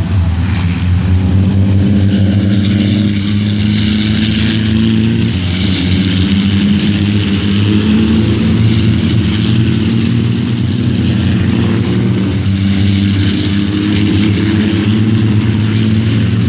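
Diesel engine of a Copa Truck race truck running hard under racing load, a loud steady drone whose pitch drifts gently up and down.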